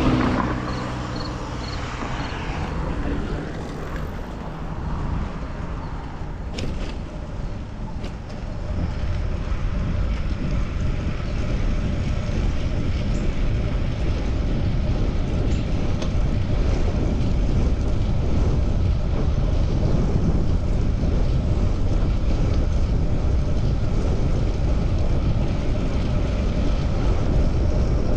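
Wind rumbling on the microphone with road and traffic noise during a bicycle ride, growing louder and steadier about a third of the way in; a louder passing sound near the start and a couple of faint clicks a few seconds later.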